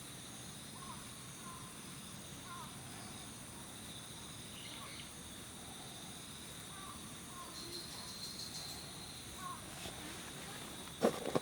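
Steady high-pitched insect chirring with faint short chirps scattered through it, and a few sharp knocks close together near the end.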